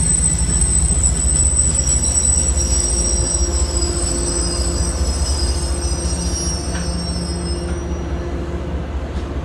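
MBTA commuter rail train led by an HSP-46 diesel locomotive rolling along the track: a steady low rumble with a thin, high wheel squeal that fades away near the end.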